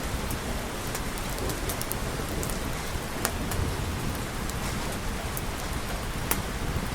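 Steady, even rain with scattered sharp clicks through it.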